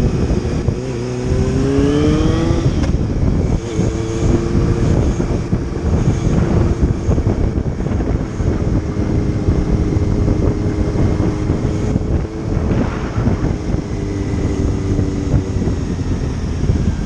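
Motorcycle engine running under way, with heavy wind rush on the microphone. The engine pitch rises about two seconds in as it accelerates, then holds steady at cruising speed.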